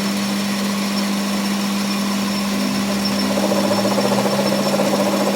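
A workshop machine running steadily: a constant low hum with a noisy hiss over it.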